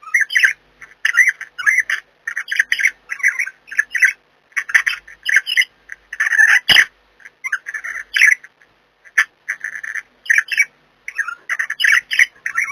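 Budgerigars chattering and squawking: short, scratchy calls in quick succession with brief pauses between them. A single sharp tap comes about halfway through.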